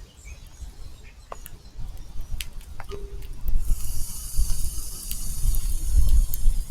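Backyard outdoor ambience: a fluctuating low rumble of wind on the microphone, growing louder from about a third of the way in. A steady high hiss starts about halfway, and short bird chirps and clicks are scattered throughout.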